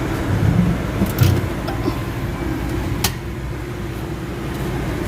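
Nissan engine idling steadily, with a brief swell in its low rumble about a second in and a sharp click about three seconds in.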